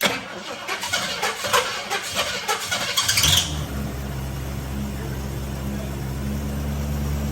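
1965 Ford Mustang engine cranking on the starter for about three seconds, then catching and running at a steady idle, an idle the owner suspects of a vacuum leak.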